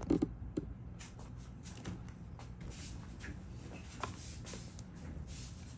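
Faint, scattered clicks and light scraping from small hand tools working on a smartphone's parts, over a steady low hum.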